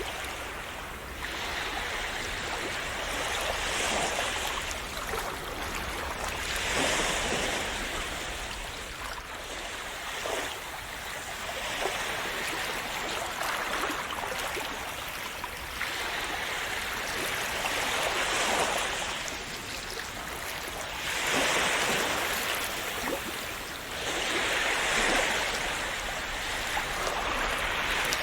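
Sea waves breaking and washing ashore, a steady hiss that swells every three to four seconds, with a constant low rumble of surf underneath.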